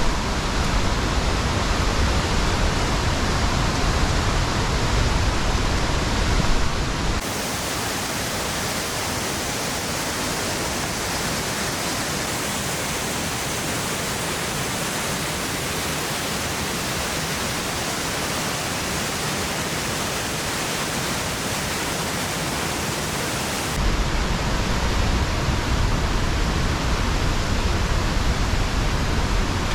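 Steady rush of the high-volume Nungnung Waterfall in full flow. Its deep low rumble drops away for a stretch from about 7 to 24 seconds, leaving a brighter hiss, then returns.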